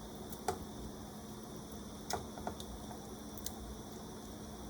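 Three faint knocks and plops as pieces of green banana are dropped into a pot of soup, over a steady low background noise.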